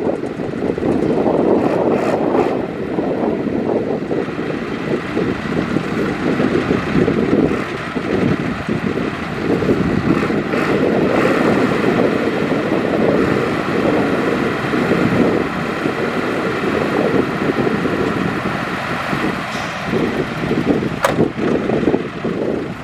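Diesel engine of heavy earthmoving machinery running steadily, with a few sharp knocks.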